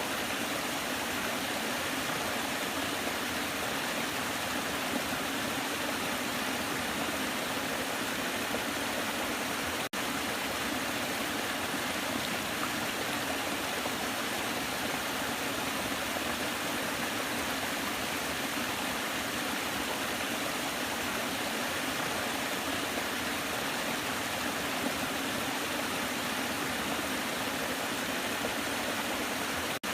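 Waterfall, its falling water making a steady, even rushing noise, with a split-second dropout about ten seconds in.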